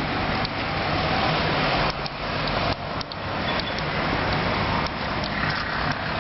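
Steady city street noise of road traffic going past, with a few faint clicks.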